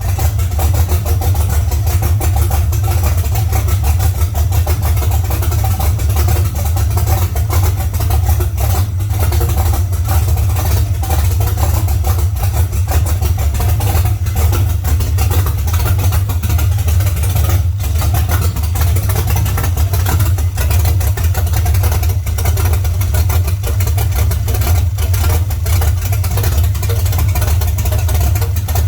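Blueprint Engines 400 cubic-inch small-block Chevrolet V8 with a performance cam, idling through open headers: a loud, steady, deep and uneven idle.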